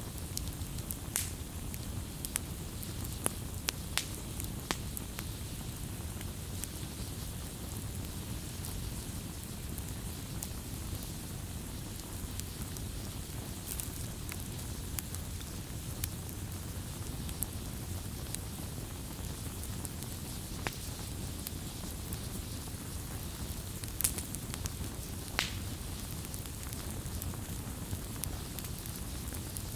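Wood fire burning: a steady low rumble of flame with scattered sharp crackles and pops. A few of the pops are louder than the rest, several near the start and a couple later on.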